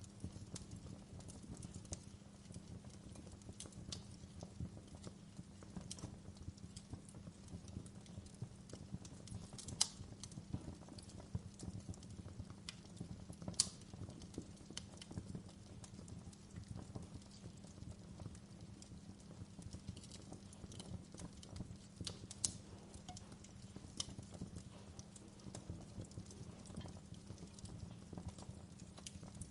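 Wood fire crackling in a fireplace: frequent small irregular pops and snaps over a steady low rumble of burning logs, with a few louder sharp snaps now and then.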